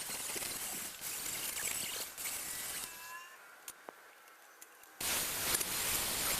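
A steady spraying hiss that stops about three seconds in and starts again abruptly about two seconds later.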